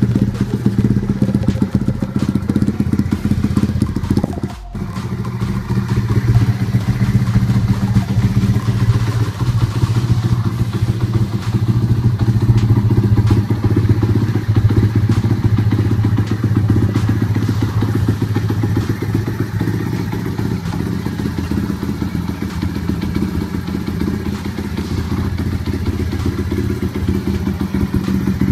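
Dirt bike engine running at a fairly steady speed, with a brief sudden dip about four and a half seconds in.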